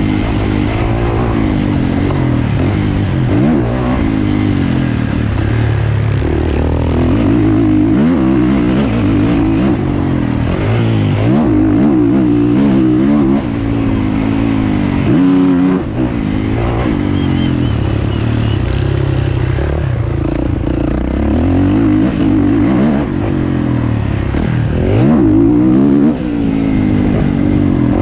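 450cc four-stroke motocross bike engine revving hard, its pitch rising and falling again and again as the throttle is opened and shut. Short throttle cuts come about thirteen, sixteen and twenty-six seconds in.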